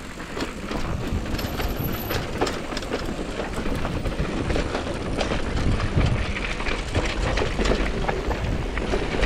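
Downhill mountain bike rolling off and descending a dirt trail. Tyres roll over dirt and the bike rattles and clatters over the bumps, with a dense run of clicks and knocks over a steady rush of wind and low rumble that builds up in the first second.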